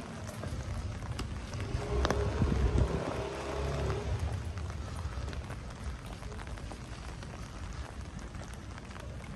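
Steady rain falling, a continuous hiss with scattered drop ticks. A louder low rumble with a faint hum swells about two seconds in and fades again by about four and a half seconds.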